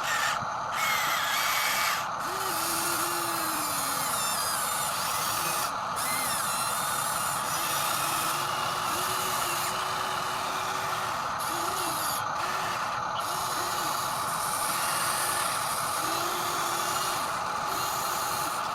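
Small electric motors and gearboxes of radio-controlled construction toys whining steadily while they work, with hissy upper noise that cuts in and out briefly several times.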